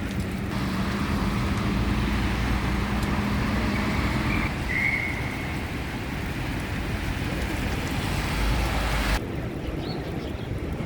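City street traffic in a snowstorm: cars driving on a snow-covered street, a steady hiss with an engine hum through the first half. The hiss cuts off suddenly near the end.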